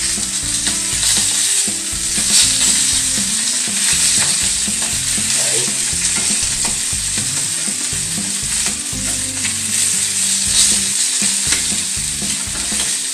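Sausages frying in a pan, a steady loud sizzle, with the tongs now and then scraping and knocking in the pan as the sausages are turned.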